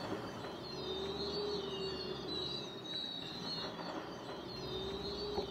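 Outdoor evening ambience: birds chirping in high, wavering calls over a soft background hiss and a faint low hum.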